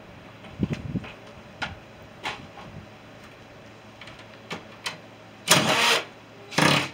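Scattered light metallic clicks and knocks while a scrapped boiler system is being worked on, then two loud half-second bursts of noise near the end.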